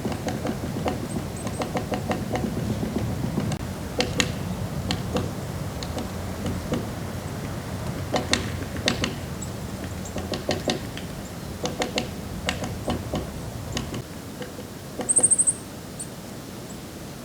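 Irregular sharp clicks and knocks over a low rumble that fades out near the end. About fifteen seconds in, a bird gives one short, very high, fast trill, the loudest sound here.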